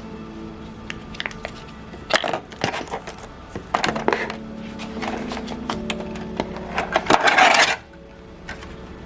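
Light clinks and knocks of dishes and cutlery being handled, with a louder noisy scrape or rustle lasting about a second near the end, over soft background music.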